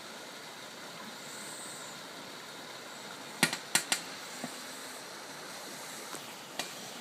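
Steady rush of floodwater running through a swollen creek, with a quick cluster of sharp clicks about halfway through.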